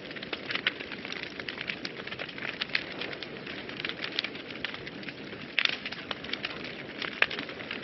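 Wood fire burning in a fireplace: a steady soft hiss with frequent sharp crackles and pops, one louder pop near the end.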